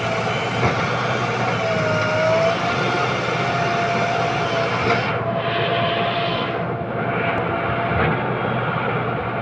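JCB 3DX Plus backhoe loader's diesel engine running steadily under working load, with a thin steady whine over the engine noise.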